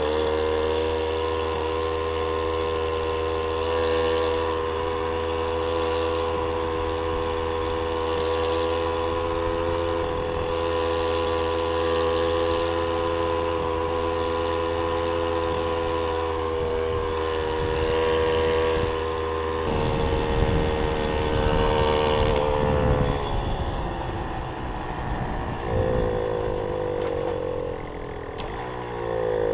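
A Jawa 555 moped's 50 cc two-stroke single-cylinder engine running under way at a steady pitch. About two-thirds through, the note changes: it drops, then falls and rises again as the throttle is eased and reopened.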